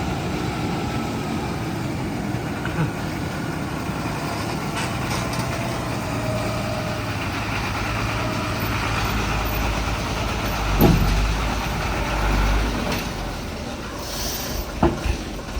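Heavy truck engine running, its low rumble swelling heavier through the middle, with a sharp thump about eleven seconds in and a few knocks near the end.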